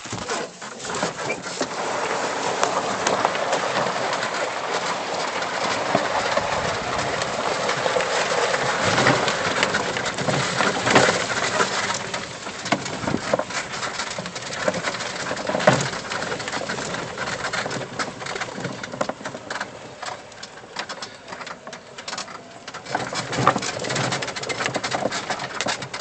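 A lifted 1997 E-Z-GO electric golf cart on 22-inch tires driving along a dirt trail: a steady noisy rush of tyres and rattling, with scattered knocks.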